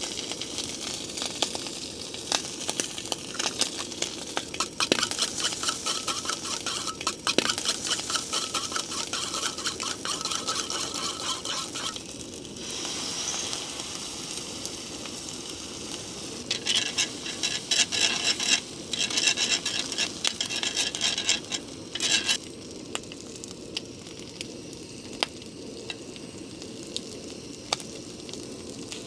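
Breakfast frying in a multi-grill pan: bacon and scrambled eggs sizzling while a utensil stirs and scrapes against the pan. The sizzling and clicking run busily for about the first twelve seconds, come back louder for a few seconds past the middle, then settle to a quieter sizzle with occasional ticks.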